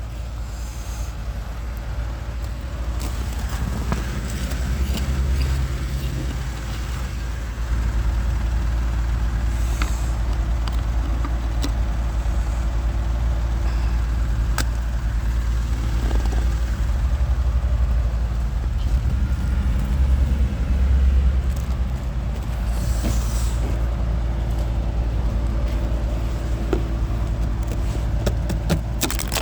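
A motor vehicle running, a steady low rumble with a steady hum over it, growing louder about eight seconds in.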